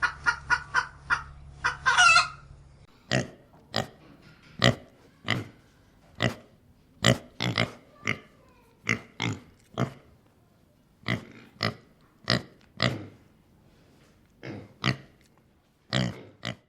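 A hen clucking for the first couple of seconds, then a pig grunting: a string of short, separate grunts, irregularly spaced, roughly one every half second to a second.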